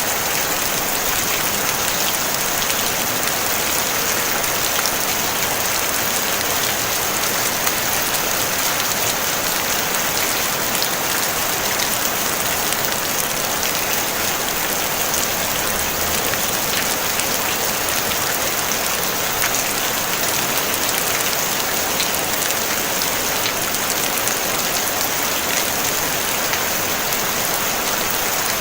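Steady rain falling on a tin roof, an even hiss of many drops with fine ticks of single drops throughout and no thunder.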